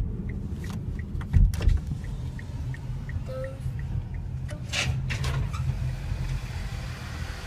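Steady low rumble of a vehicle driving on the road, engine and road noise together, with a single knock about a second and a half in and faint regular ticks in the first half.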